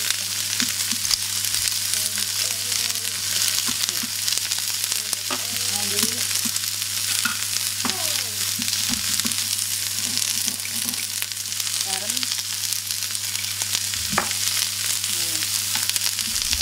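Green beans, carrots, onion and tofu sizzling steadily in hot oil in a skillet over high heat, with a few sharp pops. A steady low hum runs underneath.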